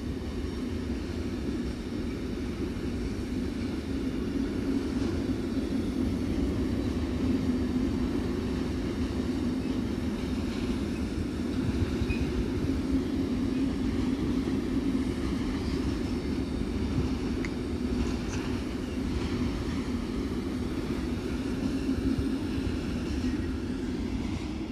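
Freight train of flat wagons carrying containers and tank containers rolling past: a steady low rumble of wheels on rails.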